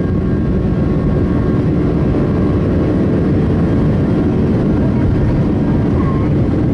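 Steady jet engine and airflow noise inside the cabin of a Boeing 757-200 in flight after takeoff: a loud, even low rush with faint steady whining tones above it.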